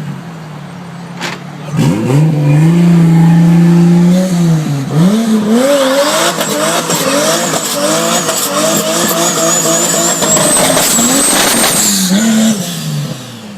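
Tuned performance car engine revving hard: the pitch climbs and holds steady for about two seconds, then rises and drops again and again, as in a run up through the gears. A thin high whine climbs over it toward the end, and the sound falls away just before the end.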